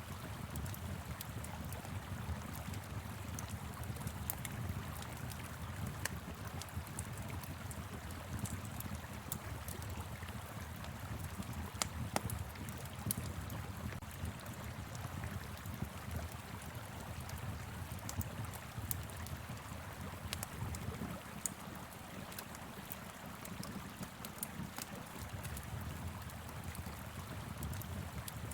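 Wood fire crackling with scattered sharp pops, over the steady low rush of a flowing river.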